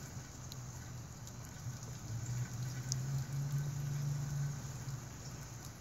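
A fire engine's Detroit Diesel engine heard from a distance as a low drone. It swells about two seconds in and eases off near the end.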